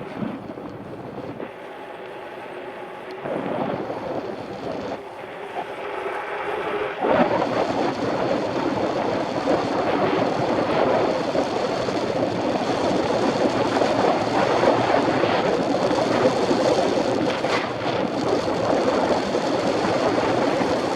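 Riding noise picked up by a Shimano CM-1000 action camera on a moving mountain bike: a steady rush of wind on the microphone and rolling noise, stepping up and growing louder about seven seconds in.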